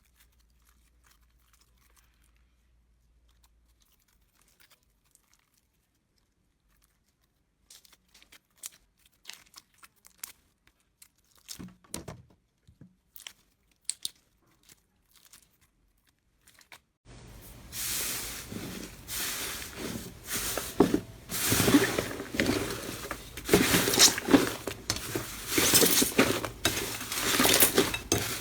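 Slime being handled, making crackling, popping and crinkling sounds. It is almost silent at first, with scattered clicks from about a quarter of the way in, and from about two-thirds in it turns into dense, loud crackling and popping.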